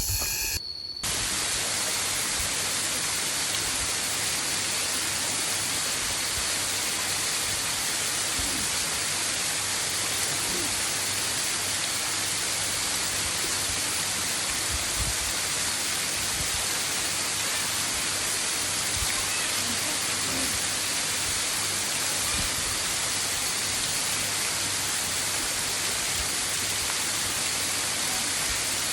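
Waterfall: falling water rushing steadily and evenly. It starts abruptly about a second in, after a brief drop.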